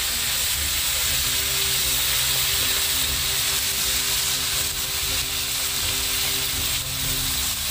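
Crabs sizzling steadily as they are stir-fried in a wok over a gas burner, stirred with a spatula.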